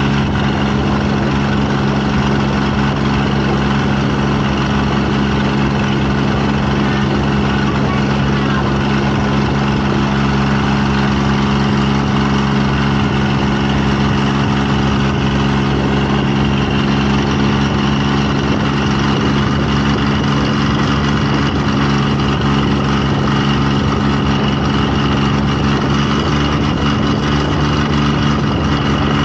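An engine running at a steady speed, its pitch holding constant throughout.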